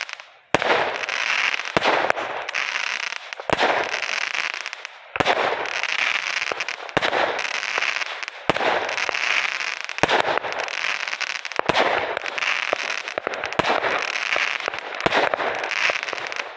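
Consumer aerial fireworks going off in quick succession: a sharp bang every second or two, each followed by a long crackling hiss as the bursts fizzle out.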